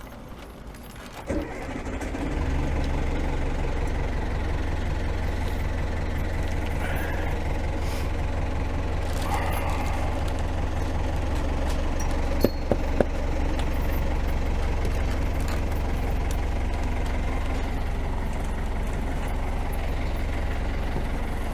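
Perkins 4-108 four-cylinder marine diesel starting about two seconds in after sitting unused a long time, then running steadily with a strong low rumble. A few sharp clicks a little past halfway.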